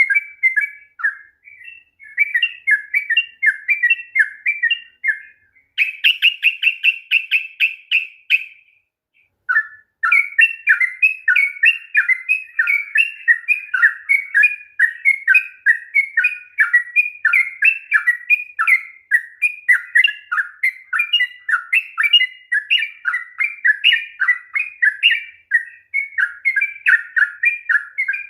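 Yellow-vented bulbul (trucukan) singing a long, fast run of short chattering phrases. About six seconds in comes a quicker, higher series of notes, then a pause of about a second before the song starts again and runs on.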